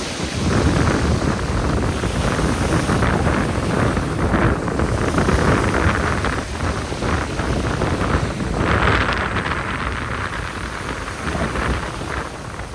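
Strong gusting wind buffeting the microphone, a heavy rumble, with sea surf washing in beneath it and swelling twice.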